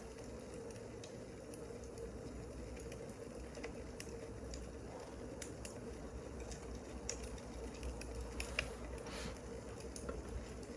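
Wood fire crackling: irregular sharp pops and snaps scattered over a low, steady background hum.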